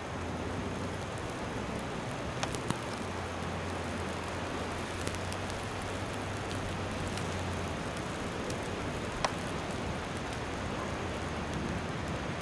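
Steady hiss of blizzard wind and snow, with a low hum underneath that stops about two-thirds of the way through, and a few faint clicks.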